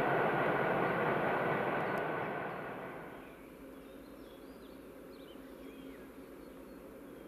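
A train rolling along the rails, its rumble and rail noise loud at first and then dropping away about three seconds in. Afterwards faint bird chirps over a quiet low hum.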